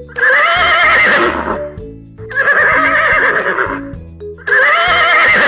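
Horse neighing three times, each whinny about a second and a half long with a wavering pitch, over background music.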